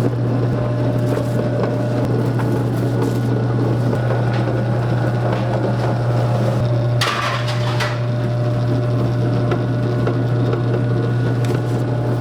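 Steady low mechanical hum of a motor or fan running, with faint scattered crackles and a brief hiss about seven seconds in.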